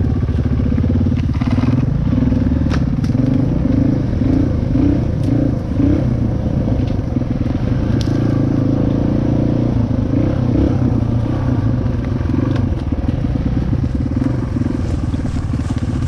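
Dirt bike engine running at low trail speed, the throb rising and falling with the throttle, while sticks and brush snap and scrape under the bike.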